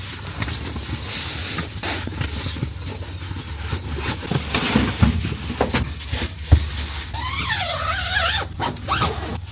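Low, steady rumble of an approaching train, with scattered knocks and rustles of gear being handled. Near the end there is a brief wavering, warbling sound.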